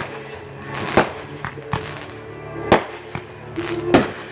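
Fireworks shells bursting: four loud bangs about a second apart and a few smaller pops between them, over music playing along with the display.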